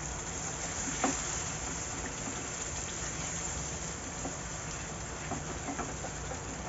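Onion, yogurt and ground-spice masala sizzling steadily in hot oil in a pan, just wetted with a little water for frying (bhuna), with a few faint clicks.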